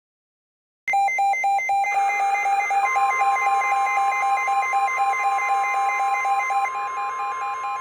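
Weather radio alert alarms going off about a second in: several rapid pulsing beep tones at once, joined about three seconds in by a steady single-pitch tone, the NOAA Weather Radio 1050 Hz warning alarm that announces a new warning.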